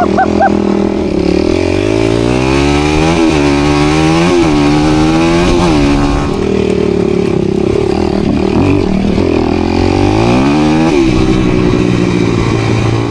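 Dirt bike engine running under throttle over loose ground, revving up and down several times in the first half, holding a steady pitch for a few seconds, then revving up and dropping back once more near the end.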